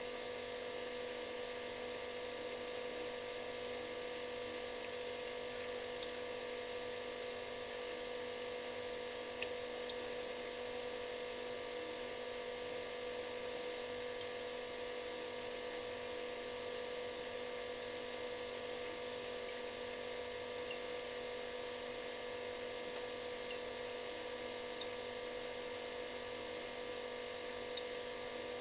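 Refrigerator running with a steady, unchanging buzzing hum: one strong mid-pitched tone with several fainter tones and a hiss above it, and a few faint ticks scattered through.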